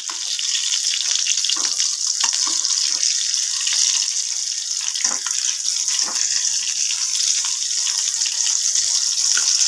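Aloo parathas shallow-frying in hot oil in a stainless steel pan: a steady loud sizzle with scattered sharp crackles.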